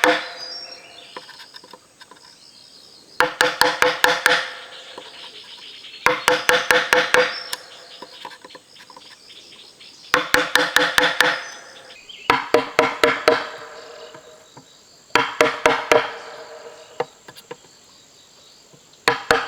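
A blade chopping hollow bamboo in quick bursts of several rapid strokes, the stems ringing with each blow. There are about six bursts, a few seconds apart.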